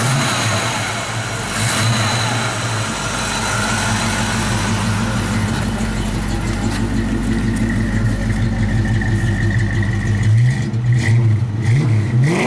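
1985 Ford Mustang GT 5.0 V8 with a Holley carburetor and Flowmaster mufflers idling steadily just after start-up, then blipped up and down a few times in the last couple of seconds.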